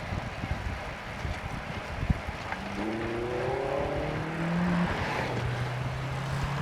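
Wind buffeting the microphone on a moving bicycle. About three seconds in, a motor vehicle's engine rises in pitch as it accelerates, then settles into a steady low drone.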